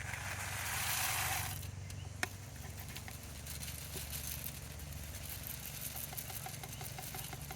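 Snake trap being reloaded with dog food: a rattling rush of noise for about a second and a half, then a single sharp click, over a steady low hum.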